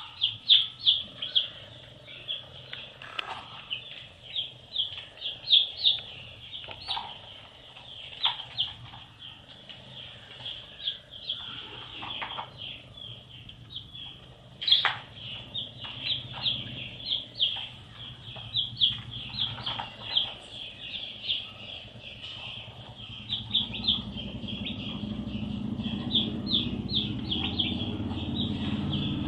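Baby chicks peeping: a dense stream of short, high peeps, several a second, many falling in pitch. A low rumbling noise builds under them near the end.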